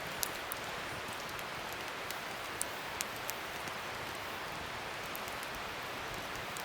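Wood fire burning: a steady hiss with sharp crackles and pops scattered through it, a few louder pops in the first three seconds.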